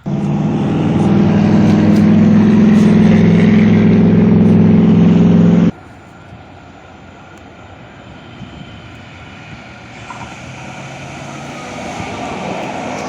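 A motor vehicle's engine running loud and steady at constant speed, cut off abruptly about six seconds in. Quieter traffic noise follows, with a passing vehicle whose pitch drops near the end.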